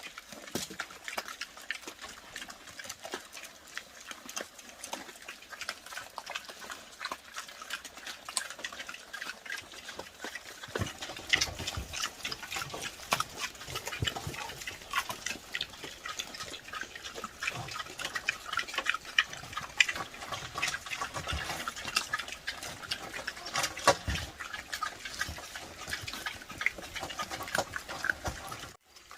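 Wild boars eating: a dense run of clicks and crunches that grows busier about eleven seconds in and cuts off suddenly just before the end.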